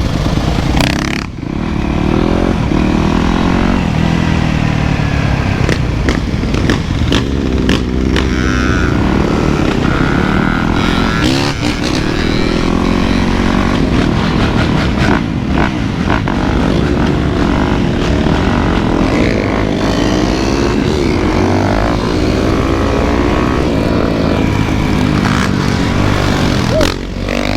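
Motorcycle engines running during a ride, the engine pitch rising and falling again and again as the throttle is worked, with scattered short knocks.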